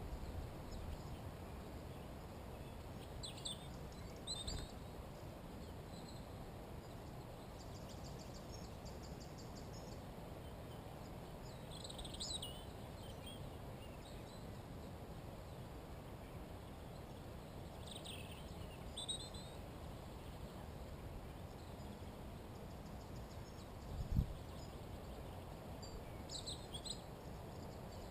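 Wild birds calling in short high chirping phrases, a few seconds apart, over a steady low rumble of background noise. A brief low thump sounds near the end.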